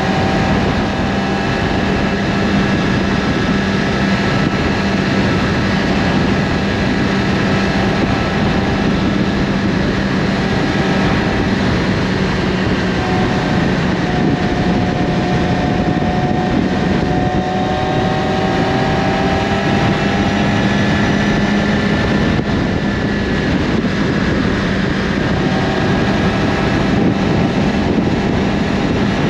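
Yamaha R6's inline-four engine breathing through an Akrapovic slip-on exhaust at steady cruising revs, its pitch drifting only slightly, under constant wind rush over the microphone.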